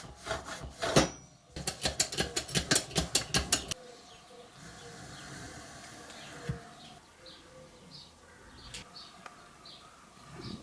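Rapid, even tapping on steel, about five strikes a second, that stops abruptly around four seconds in. After that comes a quieter stretch with small birds chirping over and over.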